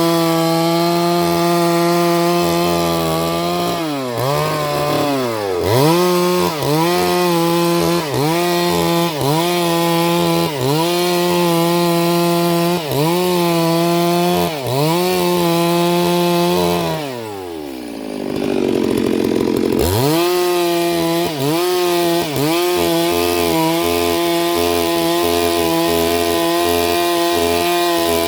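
Chainsaw engine running at high revs while cutting wood, its pitch dipping briefly and recovering about every second and a half as the chain loads in the cut. About 17 seconds in it falls back toward idle for a couple of seconds, then revs up again.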